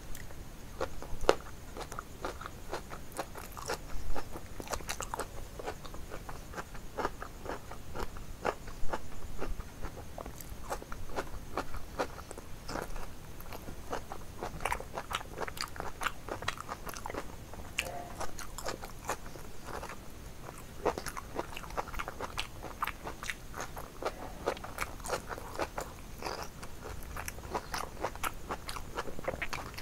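Close-miked eating: biting and chewing crunchy food, a dense run of sharp crunches several times a second.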